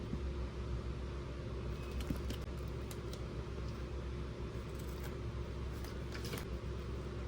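Steady background hum with a few light clicks and rattles of small plastic toy pieces being handled, the clicks bunched about two seconds in and again near the end.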